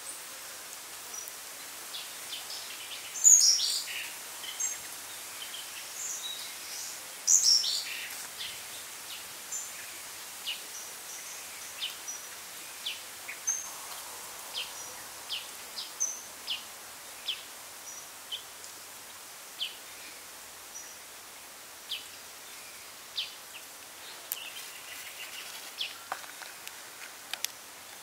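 Birds calling over steady background noise: two louder falling calls in the first eight seconds, then short chirps repeated about once a second.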